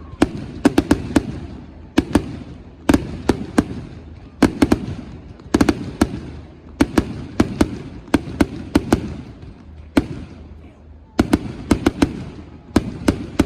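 Fireworks display going off: clusters of sharp bangs in quick succession, a new volley every second or so, with rumbling and crackling between the bangs.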